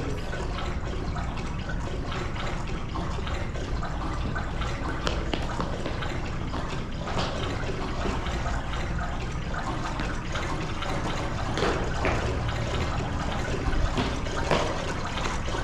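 Steady running water, a continuous splashing flow with a few faint knocks over it.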